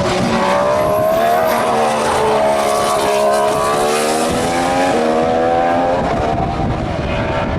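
A 2014 Formula One car's 1.6-litre turbocharged V6 hybrid engine running at high revs as it passes on track, its pitch climbing over the first second or so and then falling slowly.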